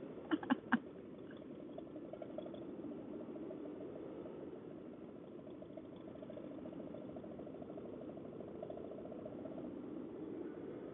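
Motorcycle engine running steadily, faint, with a fast, even pulsing under a haze of road and wind noise. Three short, sharp clicks come about half a second in.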